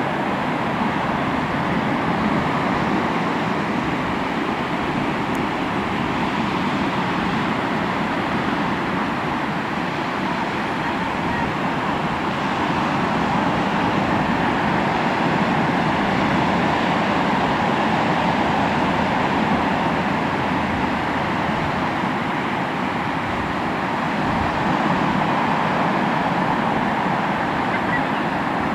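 Sea waves washing onto the shore, a steady rushing noise that swells and eases slowly.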